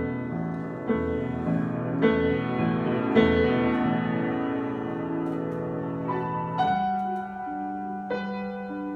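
Improvised solo piano playing slow, ringing chords: a new chord struck about once a second at first, then one held for a few seconds before the harmony moves to a new bass chord about two-thirds of the way through.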